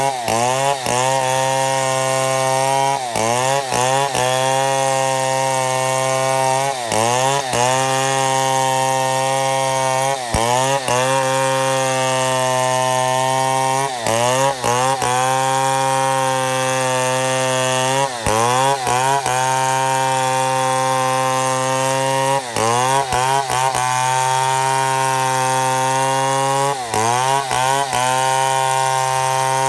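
Chainsaw at high revs ripping lengthwise through a mahogany log while milling boards. Every few seconds the engine note dips briefly and climbs back up, as the saw bogs under load or the throttle eases.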